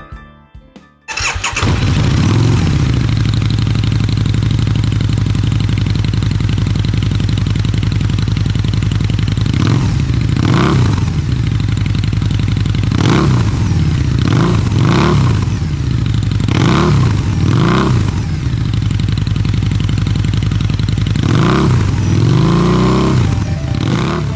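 2007 Harley-Davidson V-Rod V-twin, breathing through stock silencers modified by V-MOD for a louder note, starts abruptly about a second in and settles into a steady idle. Over the second half it is revved in about nine short throttle blips, each rising and falling back to idle.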